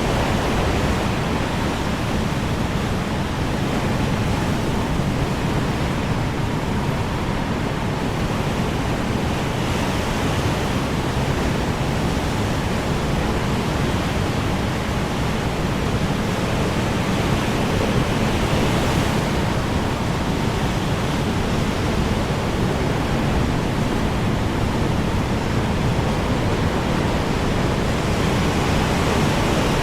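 Strong wind blowing in a steady rush, with a gust a little past the middle.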